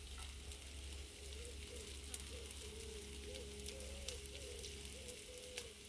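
Grated-vegetable fritters frying in a grill pan on a portable gas camping stove: a faint steady sizzle with fine crackles, over a low steady hum.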